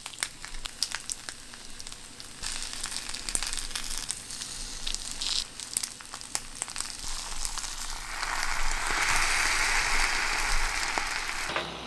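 Kimchi fried rice frying in leftover pork fat in a hot pan, sizzling with a steady crackle. The sizzle swells louder about eight seconds in, then drops off sharply just before the end.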